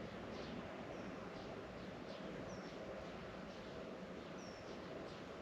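Faint outdoor ambience: a steady background hiss with short, high bird chirps every second or two.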